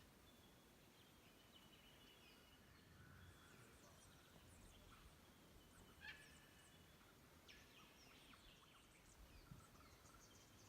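Faint birdsong: scattered short chirps and whistled notes from several small birds, with one slightly louder call about six seconds in.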